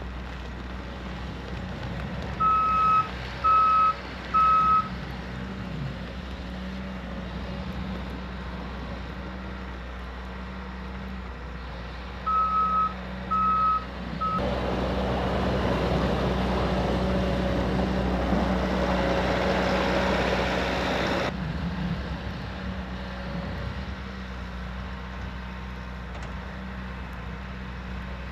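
A vehicle's engine running steadily, its reversing alarm beeping in two short runs of three beeps. From about halfway in, a louder rushing noise rises over it for about seven seconds, then drops away.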